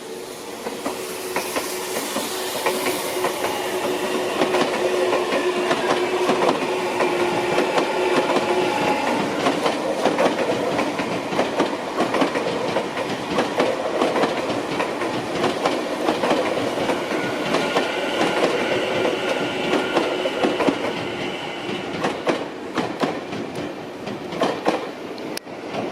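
Tokyo Metro 18000 series electric train running on the rails, its wheels clicking over the rail joints, with steady humming tones over the running noise. It grows louder over the first few seconds.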